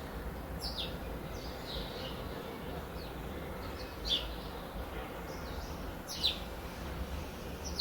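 A bird calling repeatedly: short, high notes that slide sharply downward, one every second or two, over a steady low background rumble.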